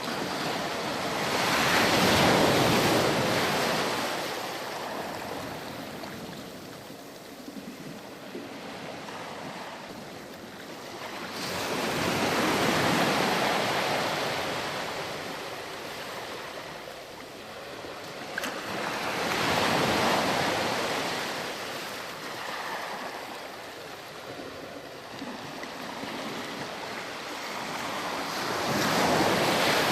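Ocean waves breaking on a beach, four surges of surf swelling and washing back about every eight to nine seconds, with a steady hiss of wash in between.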